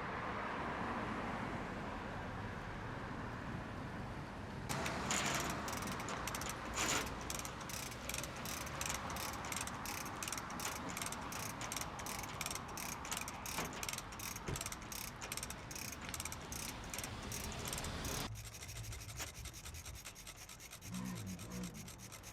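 Hand-operated lifting gear ratcheting: a pawl clicks steadily, about three times a second, for over ten seconds, then stops suddenly. A steady rushing noise runs underneath.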